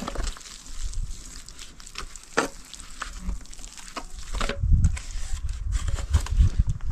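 Steel trowel scraping and smoothing wet cement mortar over concrete steps, a gritty scrape broken by scattered clicks and knocks of the tool.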